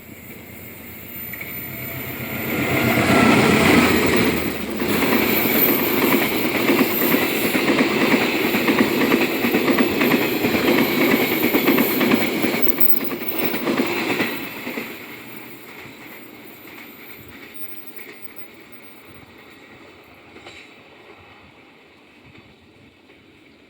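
Train passing close by. The rumble and rail noise build over about two seconds, stay loud for about ten seconds, then fade away.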